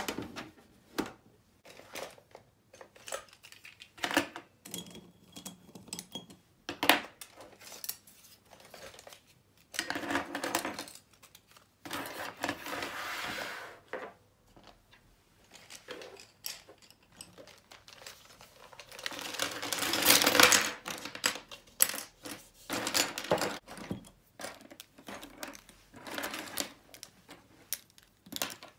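Small hard objects clicking and tapping as they are handled and set down, at an irregular pace, with a few longer rustling stretches, the loudest about two-thirds of the way through.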